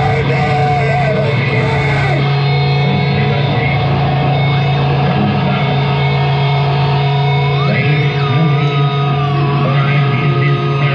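Loud live heavy noise-metal played by a band: distorted guitar over a steady low droning tone, with high tones that bend up and down in pitch near the start and again about eight seconds in.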